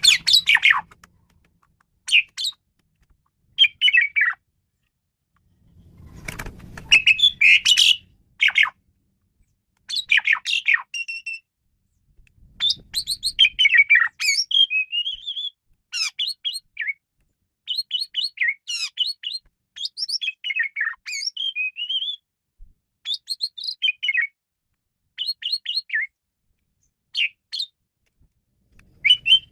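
Male Asian pied starling (jalak suren) singing a varied song of rapid squeaky chirps and gliding whistles in short phrases separated by brief pauses. A faint low rumble sits under a few of the phrases.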